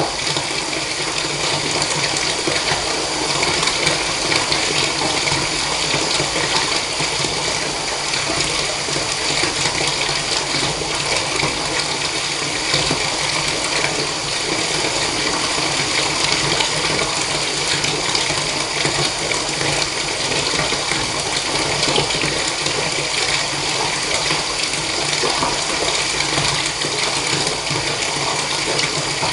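Water running steadily from a tap into a bathtub, an even, unbroken rush of water.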